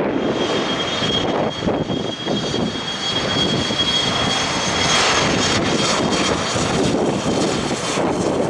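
Twin rear-mounted turbofan engines of an Embraer Legacy business jet, with a steady high-pitched whine that fades out after about six seconds. Gusty wind rumbles on the microphone.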